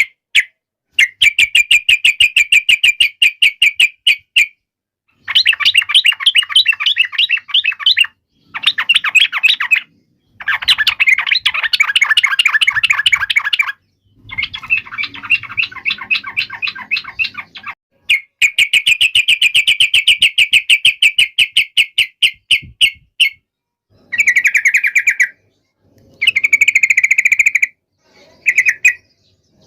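Yellow-vented bulbul (trucukan) giving rapid, harsh chattering calls, many notes a second in phrases of one to four seconds with short breaks. These are the agitated, fighting-style calls used to provoke kept birds into answering.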